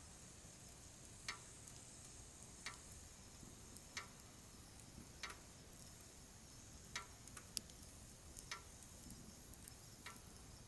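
Wood fire crackling: scattered sharp pops, irregularly about every second or so, over a faint steady hiss.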